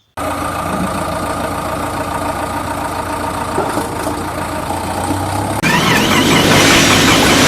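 Vehicle engine running steadily, cutting in suddenly. About two-thirds of the way in it grows louder, with a wavering high whine added on top.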